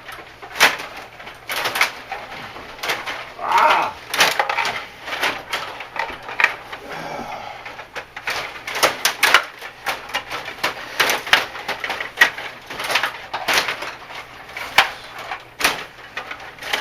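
Irregular sharp clacks and knocks of hockey play, many in quick succession, with a short vocal sound about three and a half seconds in.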